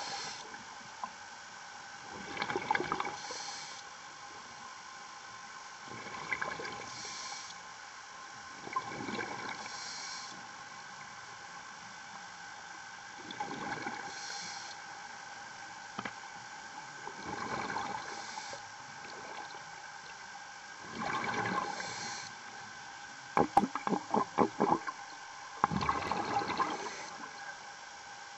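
Underwater sound of a scuba diver breathing through a demand regulator: a gush of exhaled bubbles every three to four seconds, each followed by a short hiss of inhalation. About two thirds of the way through comes a quick run of sharp knocks.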